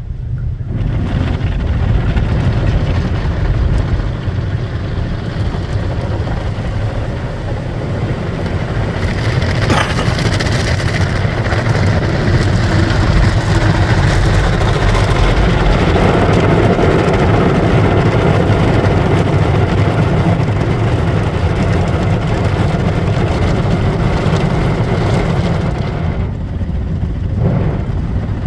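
Car wash running: a steady low rumble under a broad hiss, with a sharp click about ten seconds in and a fuller sound from about sixteen seconds.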